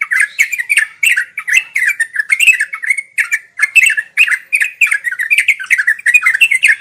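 Yellow-vented bulbul (trucuk) singing in rapid, continuous bubbly phrases of short chattering notes, one after another with no pause.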